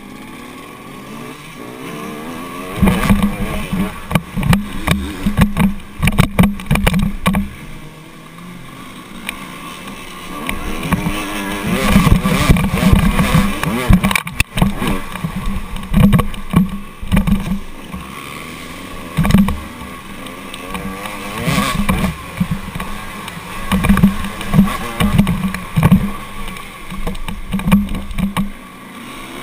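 Motocross bike engine running and revving, its pitch rising and falling again and again, with repeated loud rough bursts throughout.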